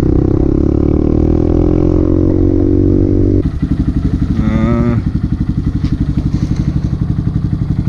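Honda Grom's 125 cc single-cylinder four-stroke engine, its pitch easing slowly down as the bike slows, then dropping abruptly about three and a half seconds in to a lower, evenly pulsing idle.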